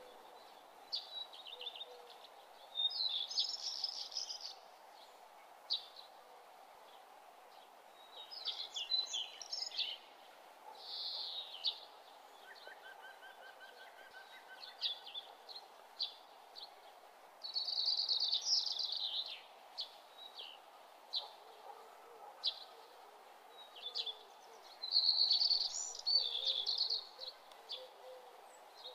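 Birds chirping in short intermittent bursts over a steady faint background hum.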